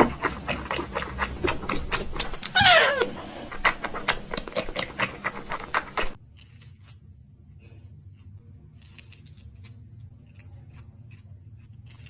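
A cat meows once, a single falling cry, over a run of quick clicks and taps about four a second. About six seconds in, the sound cuts to a much quieter stretch of faint ticking.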